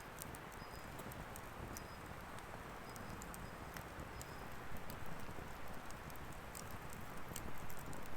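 Firewood burning in an open fire stand: a steady hiss of flames with irregular crackles and sharp pops, a few louder pops in the second half.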